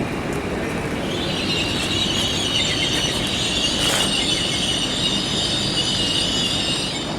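Train moving slowly with a high metallic squeal from its wheels, starting about a second in and holding until near the end, over a steady low rumble. A single sharp click about four seconds in.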